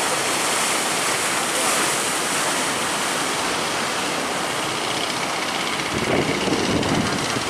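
Heavy ocean surf breaking at a river mouth, a steady rushing wash with wind on the microphone, swelling into a louder low rumble near the end.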